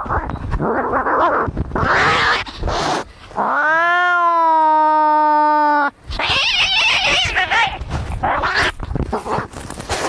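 Angry cats fighting: harsh, noisy cries with one long pitched yowl of about two and a half seconds in the middle, which rises, holds steady and cuts off suddenly.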